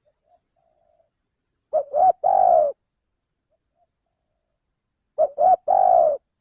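Male spotted dove (tekukur) cooing its call twice, about three seconds apart. Each phrase is two short notes and a longer drawn-out coo, with faint soft coos between.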